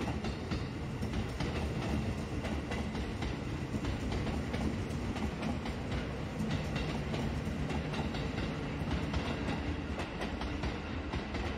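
JR 651 series limited-express electric train running past on the station tracks: a steady rumble of steel wheels on rail, with repeated clacks as the wheels cross rail joints and points.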